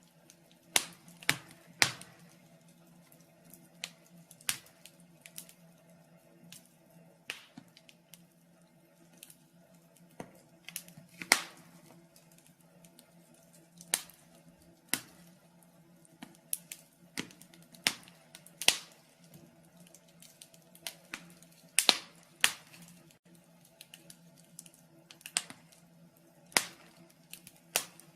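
Wood fire in a fireplace crackling: irregular sharp pops and snaps over a faint steady hum.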